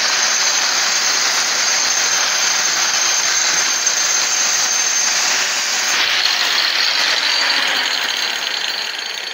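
Angle grinder with a worn-down disc grinding the face of an old fireclay brick: a steady high whine over a harsh grinding hiss, easing off a little near the end.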